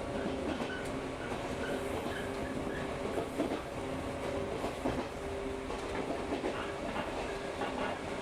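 Electric local train running at a steady speed, heard from inside the carriage: a steady motor hum under the rumble of the wheels, with the wheels clacking irregularly over the rail joints.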